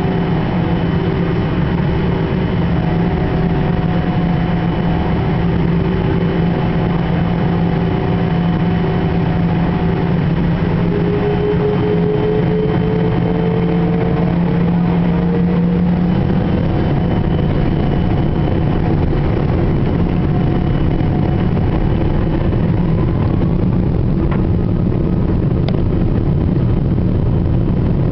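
Boeing 777-300 jet engines and airliner cabin noise heard from inside the cabin: a steady, loud rumble with several held tones, one of them slowly rising in pitch about halfway through before the tones shift.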